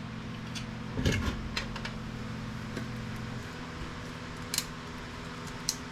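A few light clicks and taps of small scrap electronics parts being handled, about a second in and twice near the end, over a steady low hum.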